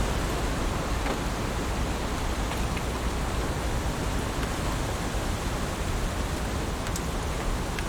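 Heavy rain falling steadily as an even hiss, with a few faint sharp drop ticks on top.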